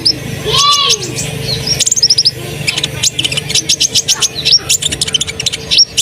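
Olive-backed sunbird singing energetically: a rapid run of thin, high chirps and short trills. A steady low hum sits underneath.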